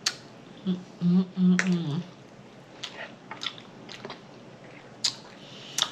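Close-miked eating sounds: wet chewing with scattered sharp lip smacks, and a short hummed "mmm" of enjoyment about a second in.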